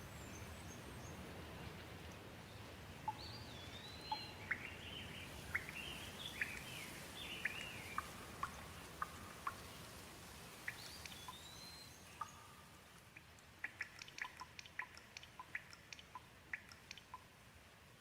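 Light rain with a soft steady hiss, and birds calling over it in short chirps and whistled glides. A quick run of short sharp ticks comes in after about thirteen seconds, while the rain hiss grows fainter.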